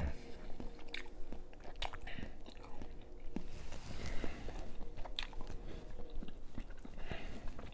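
Close-up mouth sounds of a person chewing seafood, with soft wet smacks and scattered sharp clicks.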